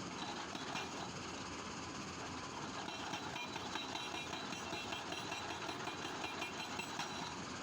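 Excavator-mounted hydraulic breaker hammering rock over steady machine noise, with a rapid run of blows from about three seconds in.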